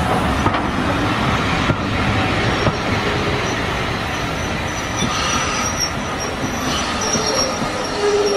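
Model train running on the layout's track, a steady dense rumble of wheels and mechanism. A faint high-pitched squeal joins from about five seconds in.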